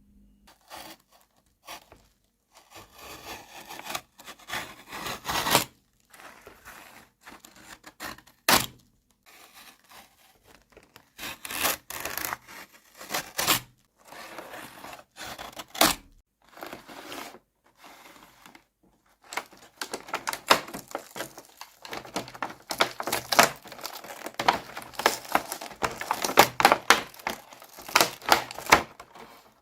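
Hands unboxing a toy hamburger set: packaging rustling, rubbing and tearing in irregular stretches, with sharp clicks and taps as pieces are handled, coming thick and fast over the last several seconds.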